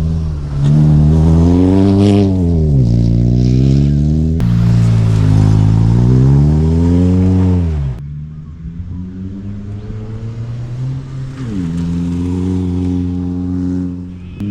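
Exhaust note of a 2002 Audi A3 with its muffler chopped out and a 4.5-inch tip, revved twice, climbing and falling each time. About eight seconds in it drops back to a lower, quieter note, then rises again and holds steady near the end.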